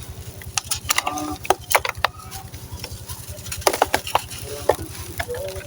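Gritty sand cement crumbling and being crushed by hand, giving irregular sharp crunches and crackles. A steady low hum runs underneath.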